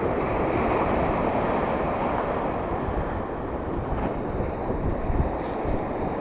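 Rough sea's waves breaking and washing on the shore in a steady rush, with wind buffeting the microphone in low, uneven gusts.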